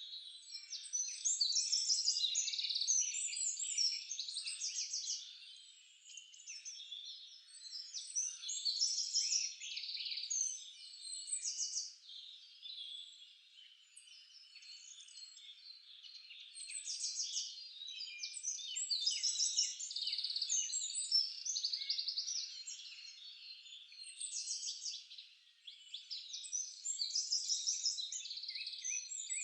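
Several songbirds singing over one another in a forest: a dense chorus of chirps and fast high trills. The song swells in phrases of a few seconds, with quieter gaps between them.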